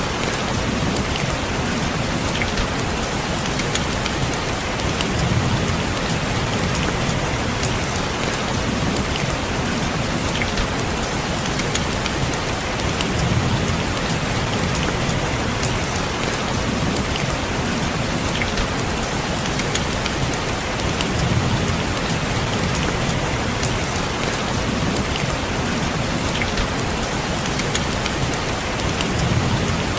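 Steady rain falling on a window, an even hiss sprinkled with sharp ticks of single drops. A low swell comes in and fades away about every eight seconds.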